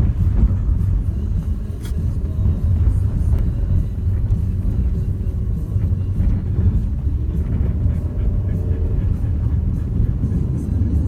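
Renault Duster 4x4 driving: a steady low rumble of engine and road noise.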